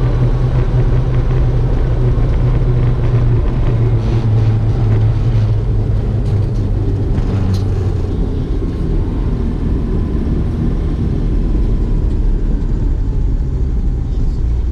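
Car driving along a road: a loud, steady low rumble of engine and tyres.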